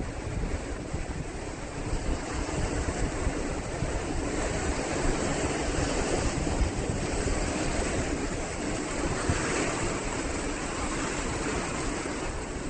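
Pacific Ocean surf washing in steadily, with wind buffeting the microphone in low rumbles.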